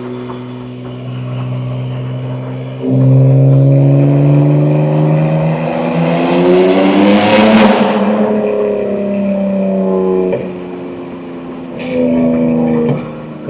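BMW M2 G87's S58 twin-turbo straight-six, through catless downpipes and an equal-length mid pipe, pulling hard under throttle. It gets suddenly louder about three seconds in and climbs in pitch, with a rushing noise peaking near the middle. The pitch then falls and the engine comes off throttle just after ten seconds, with a short push and lift near the end.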